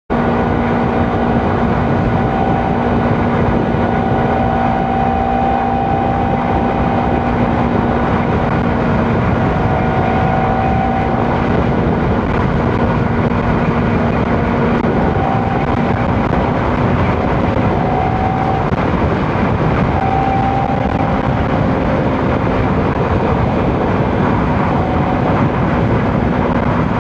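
Motorcycle riding at a steady speed: loud, even wind and road rush over a handlebar-mounted action camera's microphone, with the engine's steady hum underneath.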